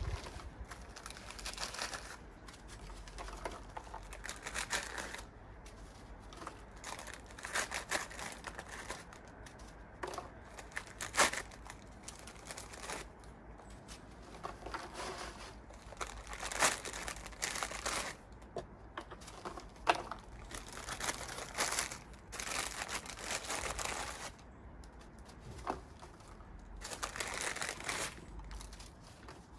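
Irregular crinkling and rustling of a digestive biscuit packet as the biscuits are taken out and put out, with scattered small crackles.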